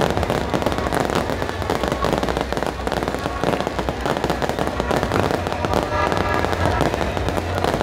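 Fireworks going off in a rapid, continuous crackle of many small pops, over a steady low rumble.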